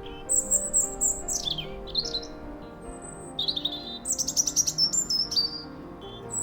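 Small birds chirping and trilling in quick high bursts, some notes sweeping downward, over soft background music with held low notes.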